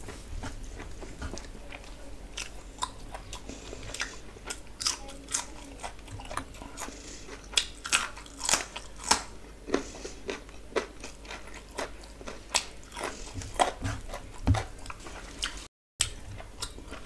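Close-miked eating sounds from a person eating biryani by hand: wet chewing and lip-smacking with many sharp, irregular clicks and crunches. The sound cuts out completely for a moment near the end.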